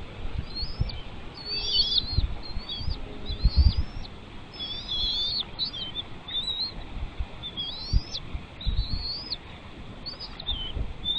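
Bird chirping: a run of a dozen or so short, high calls, many sweeping up in pitch and then dropping sharply, over low irregular thumps and rumble.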